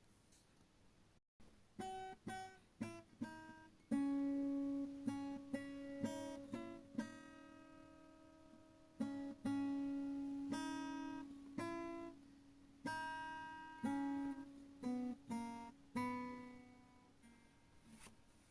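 Background music: an acoustic guitar playing a slow melody of single plucked notes, each ringing and fading, with some notes held longer.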